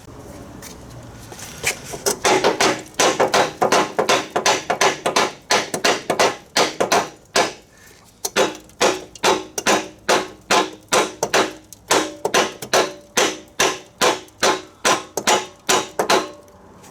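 A hammer striking metal over and over, at about two blows a second with a short pause near the middle, each blow ringing. It is hammering at a rusted-on part on the mower engine that will not come free.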